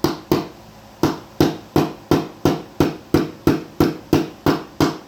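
A hammer striking in a steady rhythm, close to three blows a second with one short pause about half a second in. It is driving a new roll pin into a Honda CT70 front fork, chasing out the alignment punch.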